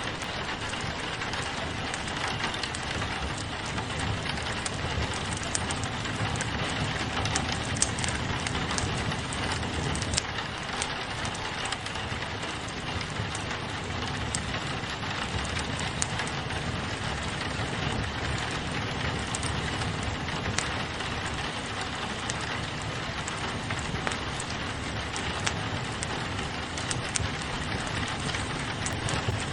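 Steady rain falling on a window, mixed with a crackling wood fire in a fireplace. Scattered sharp pops and ticks sit over a constant wash of rain with a low rumble underneath.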